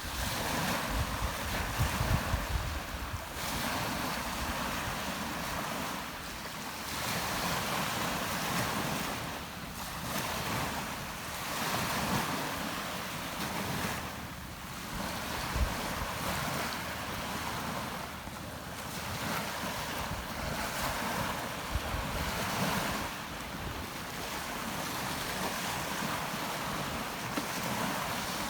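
Rough Mediterranean surf breaking and washing on the shore, the noise swelling and fading every few seconds as waves come in. Wind buffets the microphone, with low rumbling gusts in the first few seconds.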